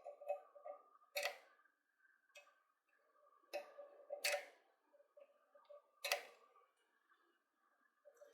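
Faint, sharp clicks and short scraping strokes of a hand tool working the commutator of a drill motor's armature, four louder strokes spread out among smaller ticks, over a faint steady tone.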